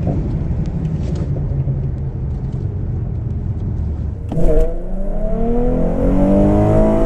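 2011 Ford Mustang's 3.7-litre V6 pulling hard through a timed acceleration run toward the quarter mile. About four seconds in there is a sudden loud change, likely a gear change, after which the engine note climbs in pitch and levels off.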